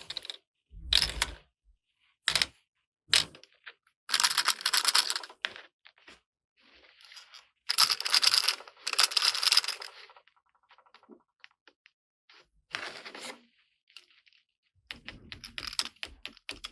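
Small plastic toy pieces and packaging handled: a string of separate clicks and taps with several short crinkling rustles.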